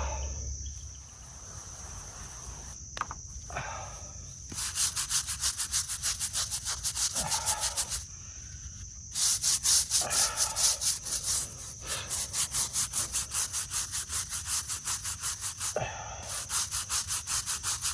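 A brush scrubbing a gravestone in fast back-and-forth strokes, about four or five a second, in three runs with short pauses between. Crickets chirr steadily behind.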